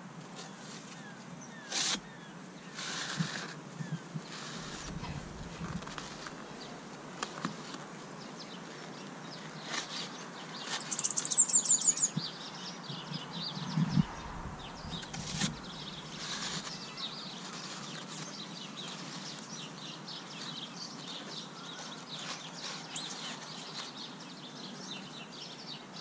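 Outdoor ambience with birds singing: a short, rapid high trill a little before the middle is the loudest sound, with fainter chirps around it. Scattered knocks and scrapes come from a plastic pipe being pushed and twisted down into a tub of sand.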